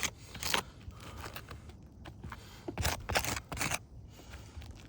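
Short gritty scrapes and crackles of asphalt shingle tabs being handled and lifted by hand: a couple near the start and a quick cluster about three seconds in.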